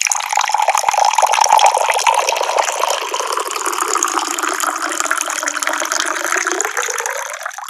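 Water running from a tap in a steady splashing pour, which stops abruptly at the very end.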